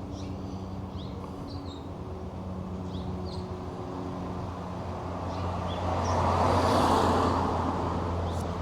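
City street traffic with a steady low hum. One vehicle passes close, swelling to its loudest about six to seven seconds in, then fading.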